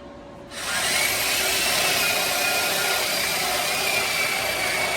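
Electric drill starting up about half a second in, its whine climbing as it spins up, then running steadily under load as it bores the hole for a dryer vent.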